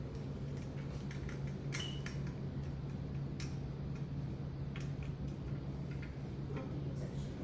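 Scattered light clicks and taps of small metal parts being handled while a tiny screwdriver is tried on a feeder screw, over a steady low hum.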